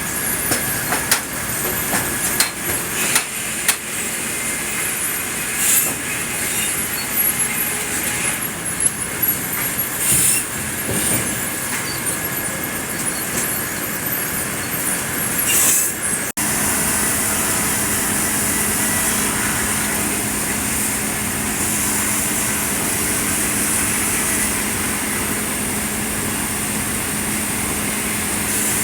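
Sawmill machinery running as red pine is sawn: irregular knocks, clatter and high squeals through the first half, then an abrupt change about halfway to a steadier, even running sound with a steady low hum.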